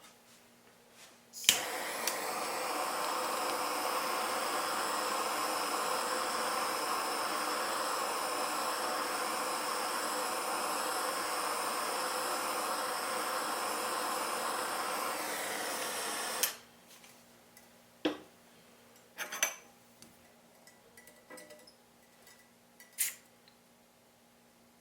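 Jeweller's gas torch lit with a click and burning with a steady hiss for about fifteen seconds, then shut off abruptly. A few light clicks and taps of small tools follow.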